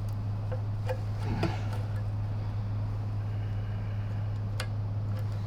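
A steady low hum with a few faint, short clicks and taps of small metal parts being handled.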